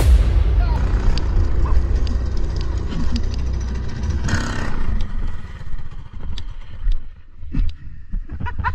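Mini bike's small engine running with a rough rumble and clatter, and a brief hissing burst about four seconds in.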